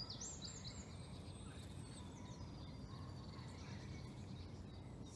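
Wild birds chirping and calling in woodland, a cluster of short high chirps near the start and thin drawn-out whistles after. Beneath them is a steady low rumble of background noise.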